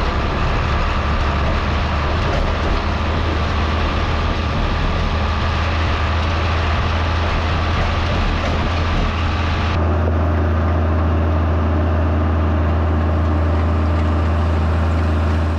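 Tractor engine running at a steady speed, a loud constant low drone, with an abrupt change in its sound about ten seconds in.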